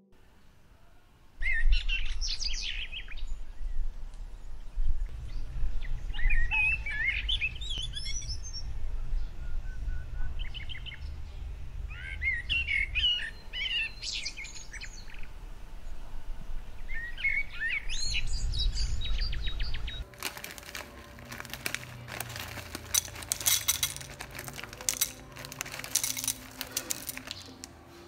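Birds chirping in repeated short calls over a low steady rumble. About twenty seconds in, the rumble stops and a dense run of sharp clicks and rustling takes over.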